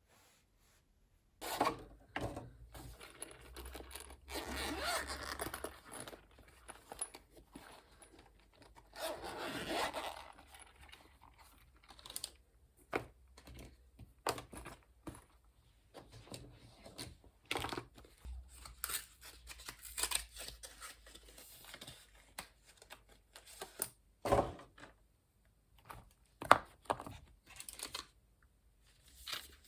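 Desk handling sounds: irregular clicks and knocks of small objects being picked up and set down, with a few longer stretches of rustling and tearing.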